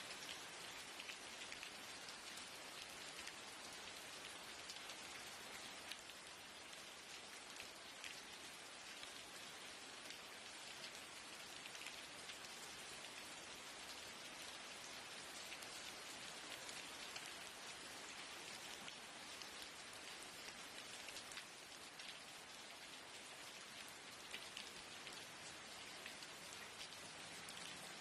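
Steady rain pattering on a window, an even hiss with scattered sharper taps of individual drops.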